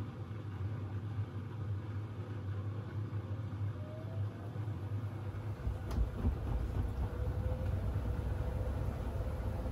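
Siemens iQ700 WG56B2090 front-loading washing machine running with a steady low rumble. About six seconds in there is a click, the rumble shifts deeper, and a faint steady whine joins it.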